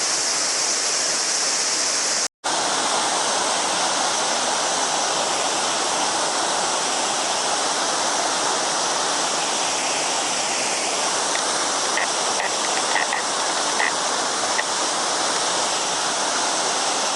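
Mountain river water babbling steadily over stones, with a summer cicada chorus ringing high above it. The sound cuts out briefly about two seconds in, and a few short faint chirps come near the middle.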